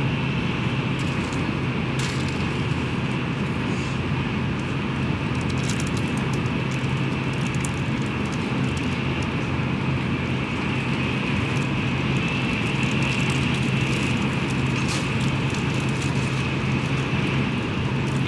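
Tokaido Shinkansen train running, heard from inside the passenger cabin: a steady hum with rushing air and rolling noise, and a few faint ticks.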